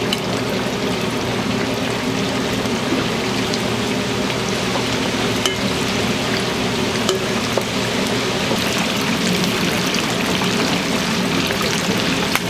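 Chicken frying in hot oil: a steady sizzle with a few sharp crackles.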